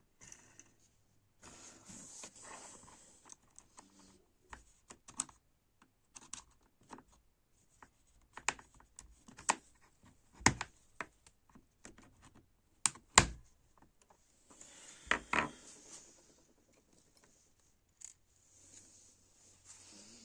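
Small parts and hand tools being handled at a workbench: irregular clicks and knocks, a few sharp ones, with short bouts of scraping or rustling.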